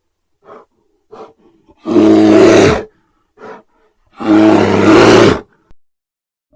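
Bear roaring twice, each roar lasting about a second, with short huffing grunts before and between them.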